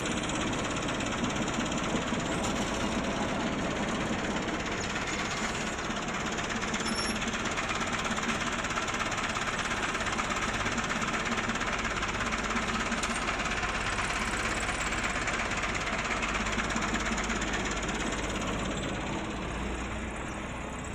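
Combine harvester's engine and machinery running steadily, a dense mechanical noise that eases slightly near the end.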